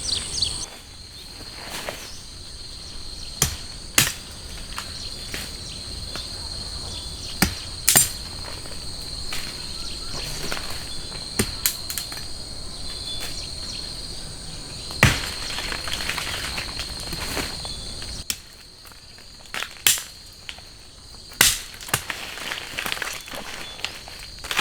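Insects droning in a steady, even high-pitched chorus, with irregular sharp taps and knocks every few seconds standing out above it.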